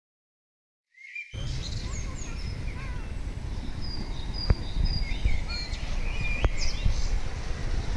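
Outdoor birdsong: several small birds chirping and whistling, including a run of short high whistles, over a low rumble. It starts about a second in after silence, with two sharp clicks around the middle.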